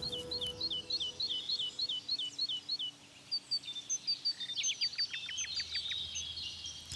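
Songbirds singing: one bird repeats a quick series of short, hooked high notes at about five a second for the first three seconds, then other birds follow with high chirps and a run of quick descending notes about five seconds in.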